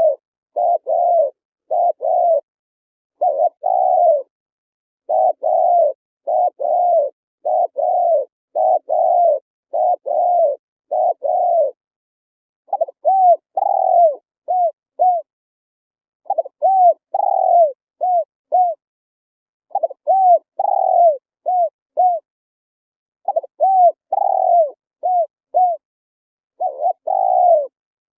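Spotted dove cooing in steady, repeated phrases of low hooting notes. For the first twelve seconds the notes come in close pairs. After that each phrase is a longer coo followed by a few shorter, quicker notes, repeating about every three to four seconds.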